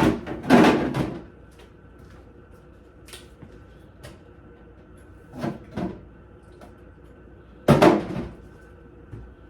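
Knocks and clatter of things being taken out of a refrigerator as it is emptied: three louder bumps, just after the start, about five and a half seconds in and near eight seconds, with light clicks between.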